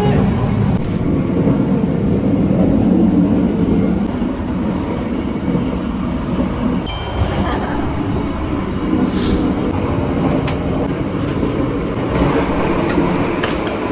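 Passenger train running on the rails: a steady rumble of wheels and carriage, with scattered clicks and a brief hiss about nine seconds in.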